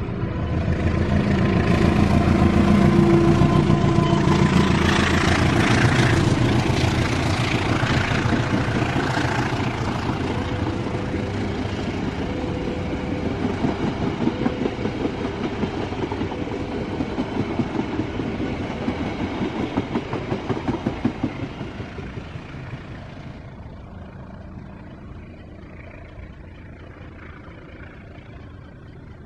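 A train passes close by: the locomotive's engine is loudest in the first few seconds. Then comes a steady rhythmic clickety-clack of wheels over the rail joints as the carriages go by, which fades away after about twenty seconds.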